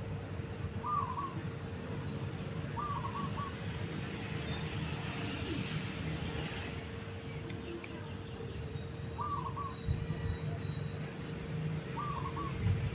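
A bird gives a short, quick call phrase four times, over a steady low rumble and a thin, constant hum.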